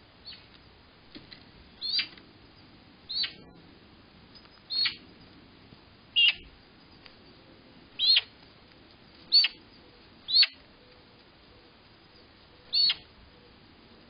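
A bird calling: eight short, high chirps, each sliding quickly down in pitch, spaced about one to two and a half seconds apart.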